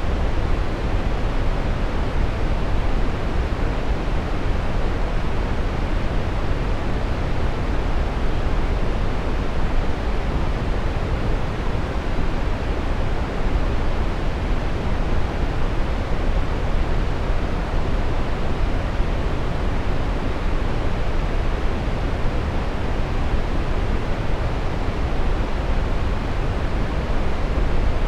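Brown noise: a steady, even rushing hiss weighted toward the low end, with no rhythm or change.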